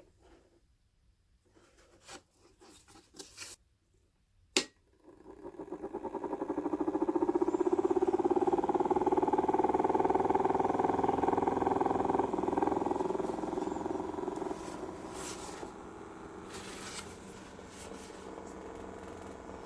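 A few light handling clicks, then a sharp click, after which a small battery-powered electric motor spins up and runs with a steady hum. It is loudest for several seconds, then settles to a quieter steady hum.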